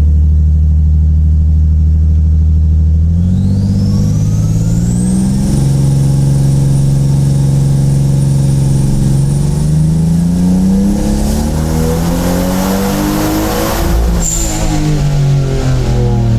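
Toyota Supra's 2JZ-GTE turbocharged straight-six on a hub dyno, with ignition timing advanced four degrees. It holds steady revs, then climbs in two steps to high revs with a high whine rising alongside. About fourteen seconds in the throttle is lifted and the revs fall away.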